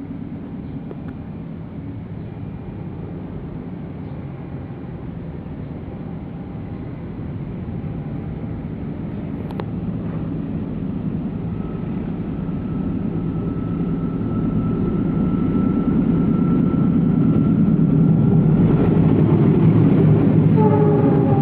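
Argo Parahyangan passenger train running: a steady low rumble that grows steadily louder, with a faint held tone in the middle and a fuller, louder noise near the end.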